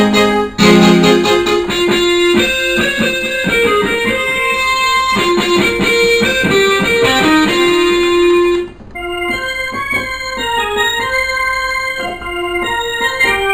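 Electronic keyboard played in a piano-like voice, chords and then a melody line; about nine seconds in the sound changes abruptly to a duller, softer voice, as the keyboard's preset sounds are tried out.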